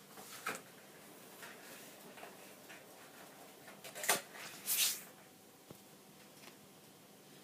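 Faint handling noises in a quiet small room: a short scuff about half a second in, then two louder rustling scrapes about four and five seconds in, with a few light clicks between.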